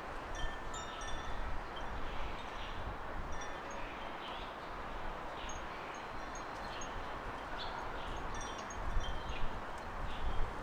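Garden ambience: a steady wash of wind and rustling, with gusty low rumble on the microphone near the end, and scattered short high notes throughout.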